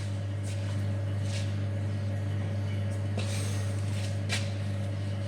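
A steady low hum, with a few faint short clicks and scrapes of hand tools working the rear brake caliper bolts and guide pins.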